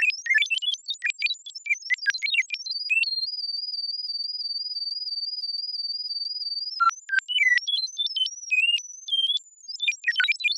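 Electronic R2-D2-style robot beeps and whistles: quick high chirps jumping up and down in pitch, then one high steady tone held for about four seconds, then scattered beeps and short pitch slides, and rapid chirping again near the end.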